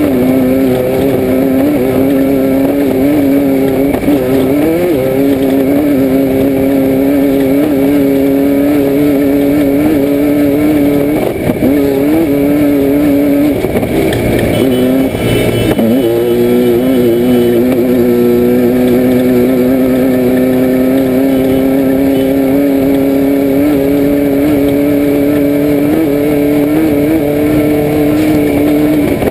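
Air-cooled 1600 cc VW flat-four of a Class 5/1600 Baja Bug running hard at steady high revs, heard from inside the car. The revs dip briefly about four seconds in. Around the middle they drop and waver for a few seconds, as when lifting off or shifting, then climb back to a steady pull.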